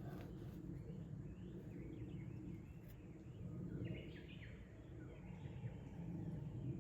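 Small birds chirping and twittering in short calls, busiest about halfway through, over a steady low outdoor rumble.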